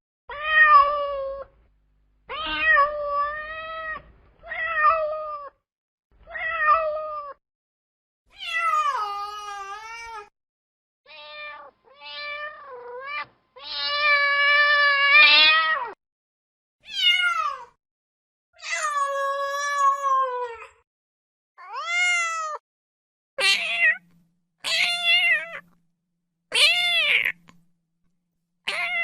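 Domestic cat meowing: a series of about fifteen separate meows, each half a second to two seconds long, with short silences between them. The pitch and shape vary from call to call; some are flat, and others rise and fall in an arc.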